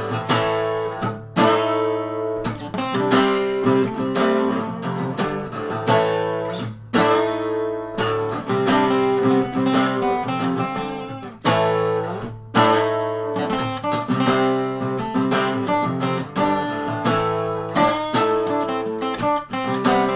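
Instrumental break of acoustic guitars strumming chords, with a few brief stops in the rhythm.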